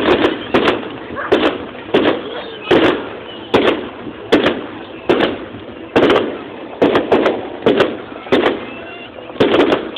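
Fireworks going off in a rapid, irregular series of loud bangs, about a dozen in ten seconds, each followed by a short echoing tail.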